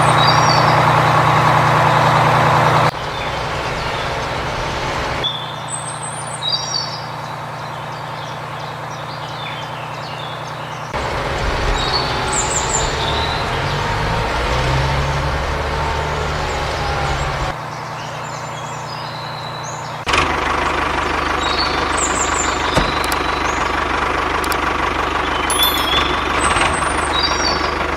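Homemade heavy-duty tractor's engine running, heard in several spliced clips so that its sound changes abruptly a few times, with the pitch shifting in the middle section; small birds chirp over it.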